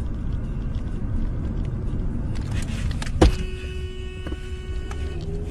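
Steady vehicle road rumble, then a single sharp bang about three seconds in, typical of a car collision. A steady pitched tone follows the bang for about two seconds.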